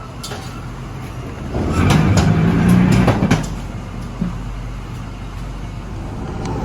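A motor vehicle's engine runs with a steady low hum. About one and a half seconds in it swells louder for roughly two seconds, then eases back, with a few light clicks.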